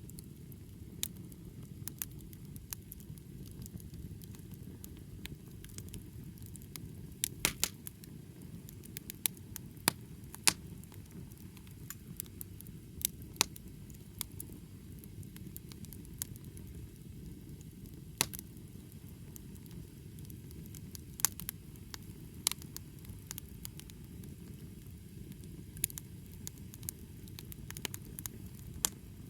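Wood fire burning, with irregular sharp crackles and pops from the burning wood over a steady low noise.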